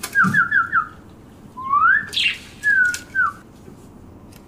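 Small caged songbird calling in clear whistled notes: a quick run of four short notes, then a rising whistle, a falling whistle and one last short note.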